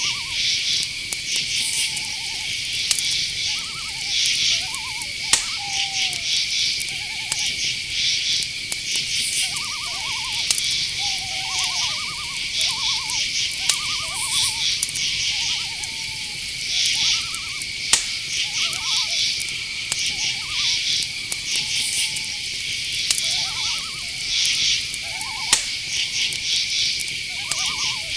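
Night insect chorus of crickets: a steady high trill with pulsed chirping over it, and repeated short trilled calls of another animal lower down throughout. A few sharp clicks stand out, near the middle and about three-quarters of the way through.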